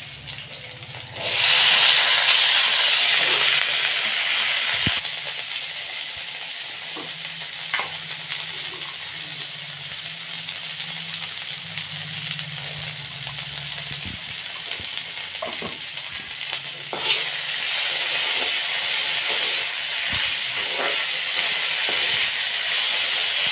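Raw potato wedges tipped into hot oil in an aluminium kadai, setting off a sudden loud sizzle about a second in. The frying then settles to a steady sizzle, with clicks and scrapes of a perforated metal ladle stirring against the pan, and grows louder again about 17 seconds in.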